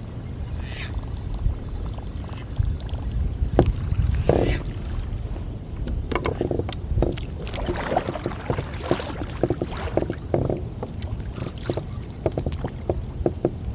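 Water slapping and lapping against a kayak's hull over a steady low wind rumble on the microphone, with a quick run of small splashes and knocks in the second half.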